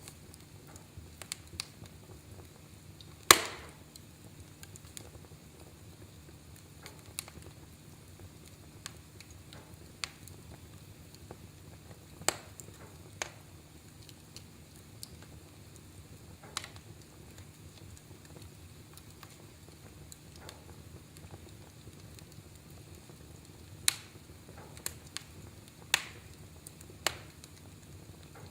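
Wood fire in a fireplace crackling: a low steady hiss with scattered sharp pops and snaps, the loudest about three seconds in and another cluster near the end.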